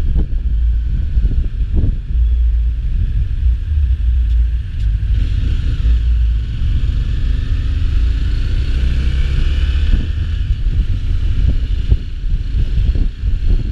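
Road travel noise: heavy wind buffeting on the microphone over the rumble of a moving vehicle. Partway through, an engine note rises and falls, as of a vehicle speeding up and passing.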